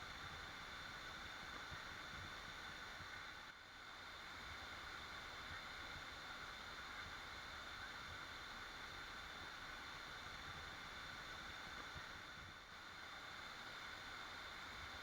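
Waterfall: a steady rush of falling water, dipping slightly in level twice.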